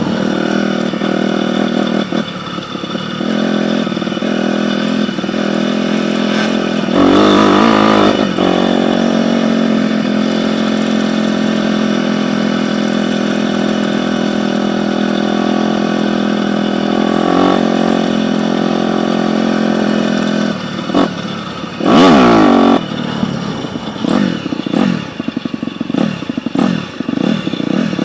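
Dirt bike engine running steadily, revved hard twice, about a quarter of the way in and again about three-quarters of the way in. Near the end it is blipped in short, quick bursts.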